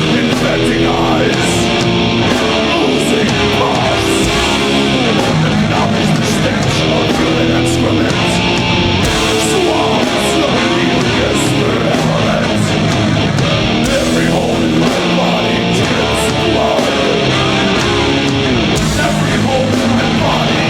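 Live heavy metal band playing loud: distorted electric guitar riffing over bass and drums, with steady cymbal hits.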